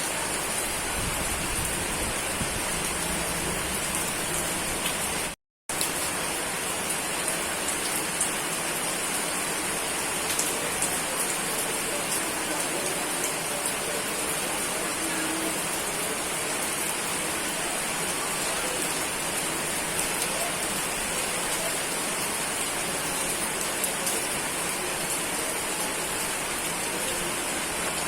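Steady rain falling: an even hiss with scattered drop taps. The sound cuts out completely for a moment about five seconds in, then resumes.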